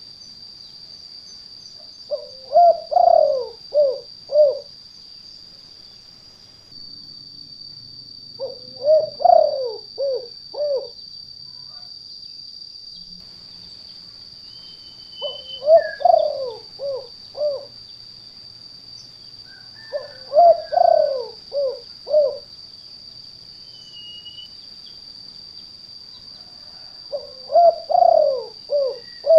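Spotted dove (tekukur) cooing its 'kuk 2' song five times, roughly every six seconds. Each phrase is a falling coo followed by a few short notes, the call type used to lure wild doves. A steady high-pitched whine runs behind throughout.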